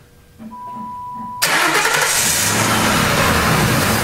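A 2000 Grand Marquis's 4.6-litre V8 is cranked by the starter, with a steady beep, and then catches about a second and a half in and runs. Power steering fluid flushes out of the disconnected high-pressure line into a drain pan with a loud rushing hiss.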